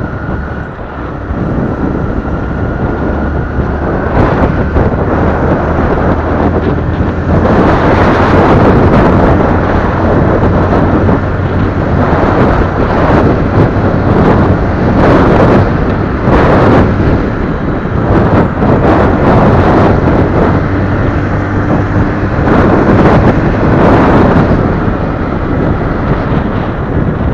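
Wind buffeting the microphone of a moving motorcycle, swelling into loud, repeated gusts from about four seconds in, over the steady low hum of the engine.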